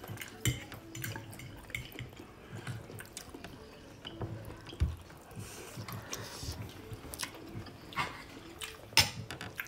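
A person eating steak and rice: close chewing with many short, wet mouth clicks and smacks, and a louder click about nine seconds in.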